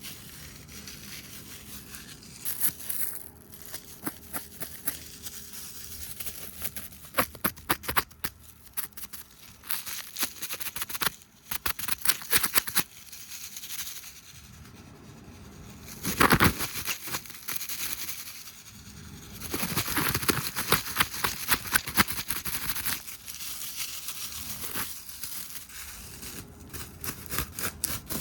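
Fast, erratic ASMR tapping, brushing and hand sounds close to the microphone: quick runs of taps and clicks alternating with scratchy brushing swishes, with a louder swish about sixteen seconds in.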